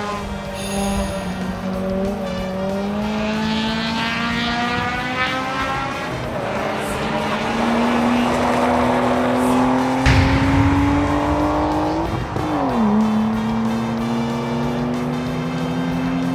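Nissan Laurel race car's engine under hard acceleration on track, its note climbing steadily. About twelve seconds in the pitch dips sharply once, then climbs again.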